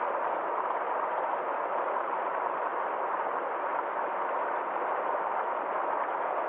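Small forest stream flowing, a steady, even sound of running water with no breaks or changes.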